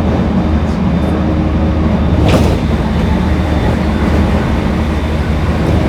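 Cabin running sound of a JR East E231 series 1000 refurbished commuter train under way: a steady, loud rumble of wheels on rail with faint steady tones over it, and one sharp click a little over two seconds in.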